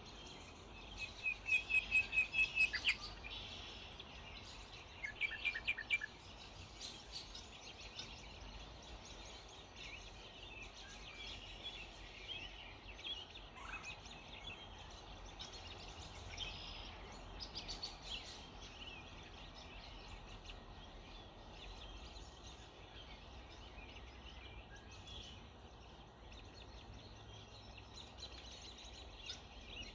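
Several wild birds singing and calling together in a morning chorus. Near the start one bird gives a loud, rapid run of repeated notes, and a shorter run follows a few seconds later. Softer chirps carry on over a faint steady background hiss.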